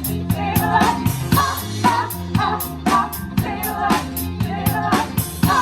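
A band playing a seventies rock song: a drum kit keeps a steady beat with evenly spaced hi-hat strokes under bass notes and a singing voice.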